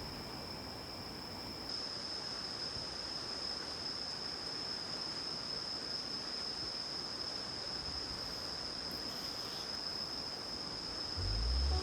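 Insects, likely crickets, chirring in a steady, unbroken high-pitched chorus over a soft background hiss.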